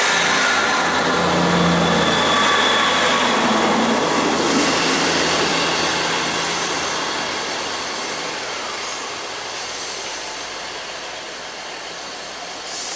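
A train passing and fading into the distance: a low engine hum and rumble that die away steadily, the hum gone about two-thirds of the way through.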